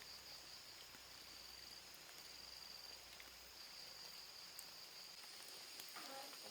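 Faint, steady high-pitched chirring of forest insects, with a soft outdoor hiss beneath.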